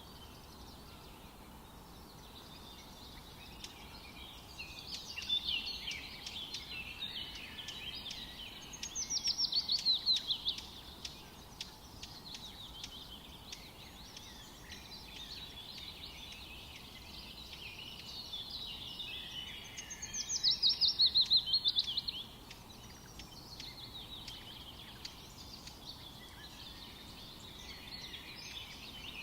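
Forest ambience with several songbirds chattering over a steady hiss. Twice, about ten seconds apart, one bird sings a loud, rapid trill that falls in pitch.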